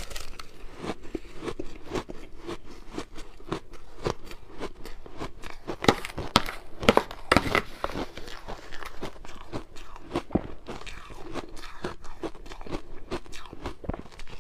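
Ice being bitten and chewed close to the microphone: a run of sharp, irregular cracks and crunches, loudest and densest about six to eight seconds in.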